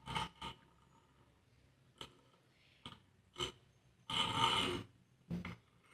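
A homemade fixed-pulley teaching model being worked by hand, its rope pulled to lift a load: a handful of light clicks and knocks, with a louder half-second scraping rustle about four seconds in.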